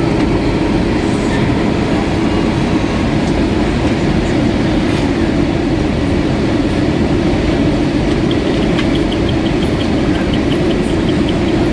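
Airbus A320 cabin noise from a window seat: the steady roar of the jet engines and the airflow over the fuselage, with a faint, quick ticking in the last few seconds.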